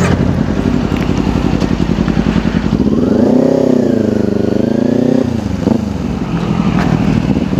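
Kawasaki Ninja 250 parallel-twin engine pulling away from a standstill. The revs rise, drop briefly at a gear change about five seconds in, then climb again.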